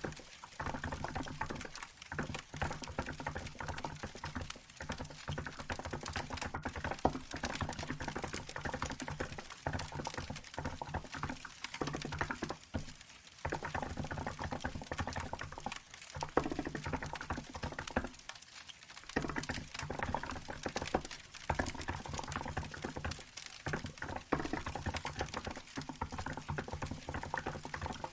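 Continuous fast typing on a Hansung GK868B mechanical keyboard with milk-white keycaps: a dense run of keystroke clacks, with brief pauses about 13 and 18 seconds in.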